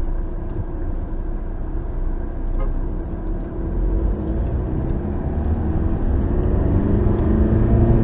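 A car driving, with steady engine and road rumble and an engine note that climbs slowly as it speeds up.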